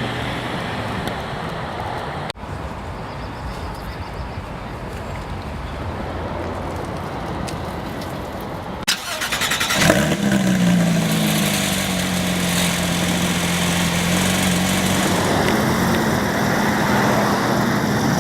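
Steady background noise, then about nine seconds in the 2015 Porsche 911 GT3's flat-six engine cranks over, catches with a rev flare, and settles into a steady idle.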